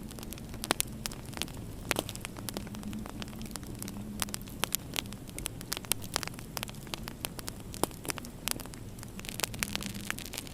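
Wood fire crackling in a fireplace: many irregular sharp pops and snaps over a steady, low background rumble.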